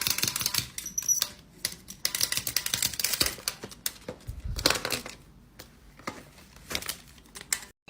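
Rapid, irregular clicking and tapping in clusters, with a low thud about four and a half seconds in.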